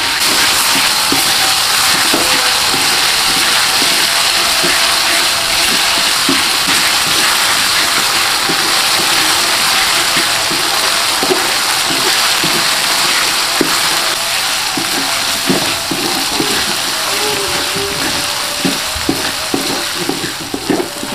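Ground chilli spice paste sizzling steadily in hot oil in a wok, with a wooden spatula stirring and scraping through it. Near the end the sizzle eases a little and the separate spatula strokes stand out more.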